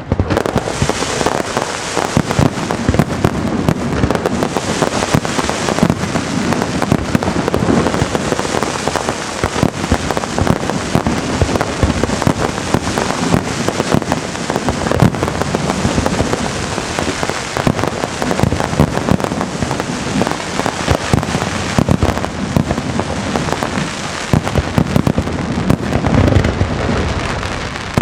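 Castillo fireworks display: a dense, unbroken crackling of many shells and crackle effects going off at once, with frequent sharp bangs standing out throughout.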